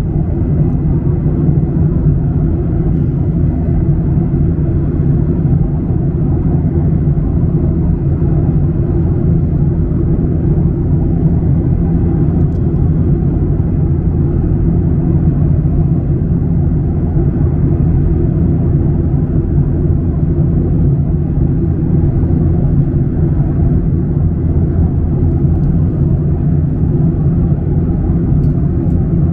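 Steady cabin rumble inside a Boeing 737-900ER in flight: its CFM56-7B jet engines and the airflow making a loud, even, deep roar that holds unchanged throughout.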